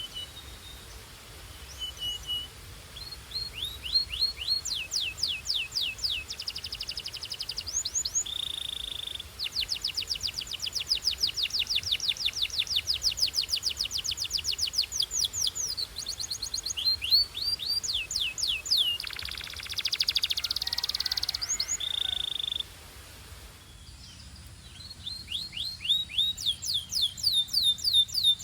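Belgian canary singing in long rolling trills of fast, rapidly repeated high notes, broken by short held whistled notes and a harsher buzzy stretch about two-thirds through. A brief pause near the end is followed by another run of trills.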